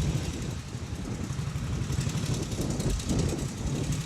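Norton 16H's single-cylinder side-valve engine running steadily with a dense, even exhaust beat.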